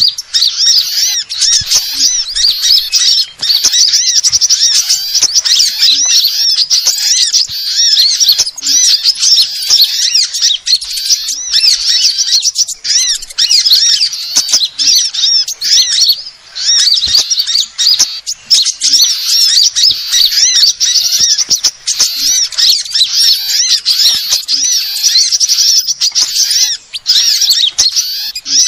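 Bird-lure recording of small birds chirping: a dense, continuous run of rapid, high-pitched chirps and trills, with several birds overlapping, played to attract small birds such as sunbirds.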